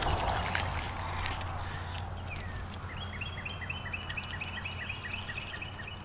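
Low steady rush of river water with a few small clicks of handling in the first second or so; about halfway through, a bird sings a fast trill of short repeated notes for about three seconds.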